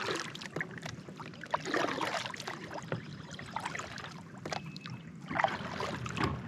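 Water splashing and trickling around a kayak, in a few irregular bursts over a steady wash of water noise.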